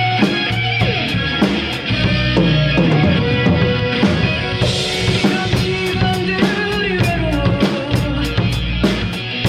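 Drum kit played in time with a rock song: a steady kick-and-snare beat over guitar and bass, with a cymbal crash a little under five seconds in.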